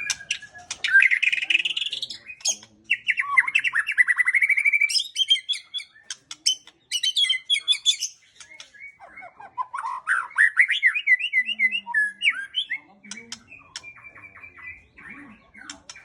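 White-rumped shama (murai batu) singing: a string of varied, rapid phrases of fast trills and rising whistles, broken by sharp clicking notes and short pauses.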